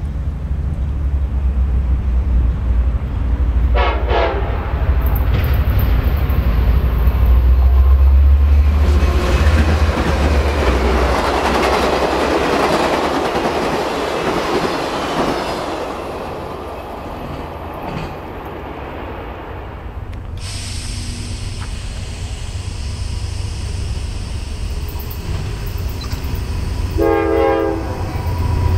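A passenger train led by NCDOT's EMD F59PH diesel locomotives gives one short horn blast as it approaches, then passes close with a deep diesel engine drone followed by a loud rush of passenger cars and wheels that peaks and fades away. A second train, a Norfolk Southern freight led by a GE D9-40CW, rumbles in the distance and sounds its horn for about a second near the end.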